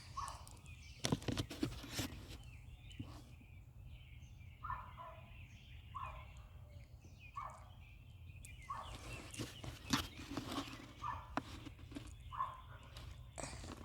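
An animal giving short calls over and over, roughly one every second and a half, with scattered knocks and rustles in between.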